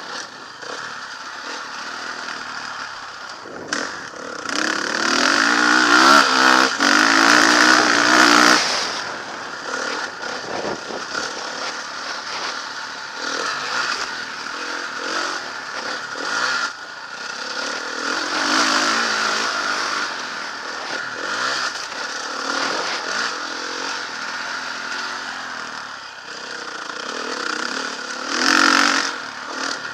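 Motocross bike engine revving up and down as it is ridden. There is a long hard acceleration from about four to eight seconds in, and another short burst near the end.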